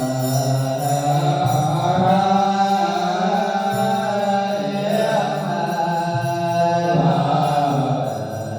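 Buddhist chanting: voices intoning in long held tones, the pitch shifting every second or two.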